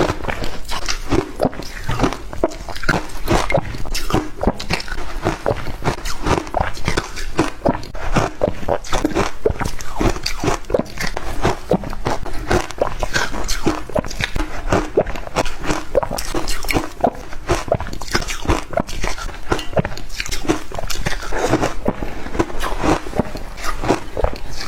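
Shaved ice being bitten and chewed close to the microphone: a continuous run of rapid, crisp crunches.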